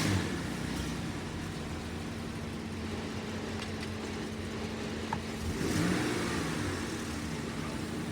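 2016 Jeep Cherokee engine running, revved up and back down once about six seconds in. The engine is shaking, from a fault the owner cannot find.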